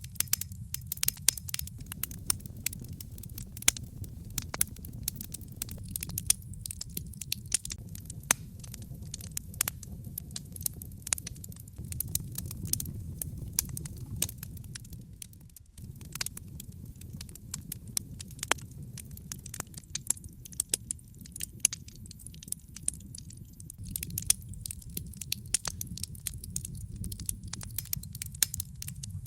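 Wood logs burning in a fireplace: a steady low rumble of flame under dense, irregular crackling and sharp pops. The sound dips out for a moment about halfway through.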